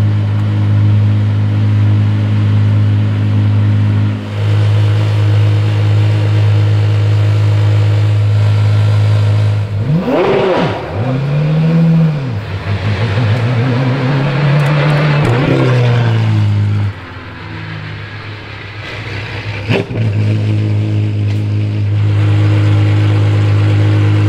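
Apollo Project EVO's naturally aspirated V12 idling with a steady note. About ten seconds in it is revved in quick blips, then held high for a few seconds. It drops away for about three seconds, then idles again.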